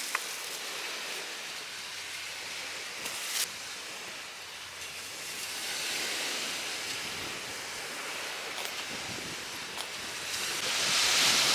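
Waves washing onto a shore: a steady hiss of surf that swells and eases, with a couple of small clicks.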